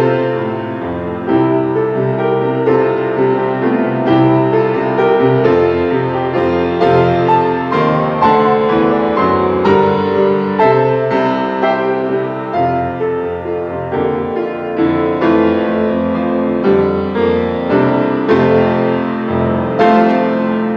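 Solo piano playing a slow piece of sustained chords, with new notes struck every second or so.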